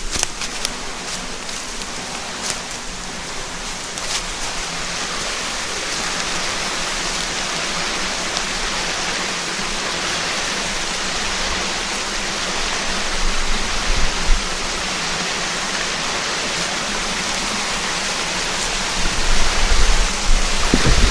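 Mountain headwater stream rushing steadily over rocks, a dense even hiss of water. A few sharp ticks in the first few seconds, and low rumbling thumps near the end.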